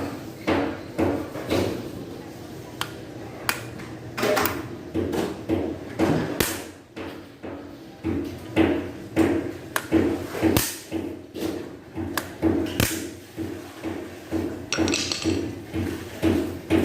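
Repeated sharp metal-on-metal taps, roughly one or two a second with a short ring after some, as a hammer and punch work the mixer's snapped old pin out.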